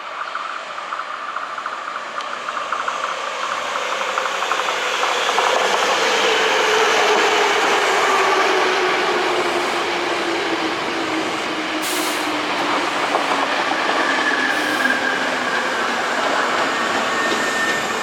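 A Hankyu resistor-controlled electric train running by on the rails, with rail-joint clatter early on. Its motor and gear whine falls slowly in pitch, and the whole sound swells to its loudest about six to eight seconds in.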